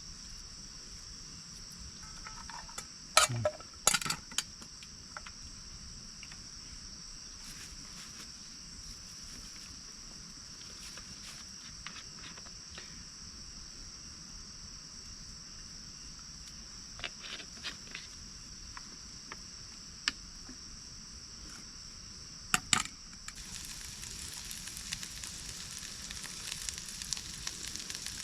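Crickets chirring steadily at a high pitch, with a few sharp knocks of a utensil on a pan. About 23 seconds in, sizzling starts as food goes into hot oil in a pan.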